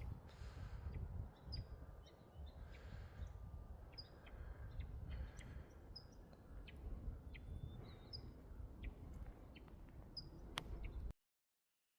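Birds chirping outdoors: short, high calls about once a second, with a few clicks, over a faint low rumble. The sound cuts out abruptly near the end.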